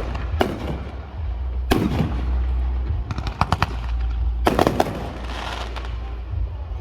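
Aerial fireworks going off: about four clusters of sharp bangs and crackles, about half a second in, near two seconds, a little past three seconds and at four and a half seconds, the last trailing into a crackling fizz, all over a steady low rumble.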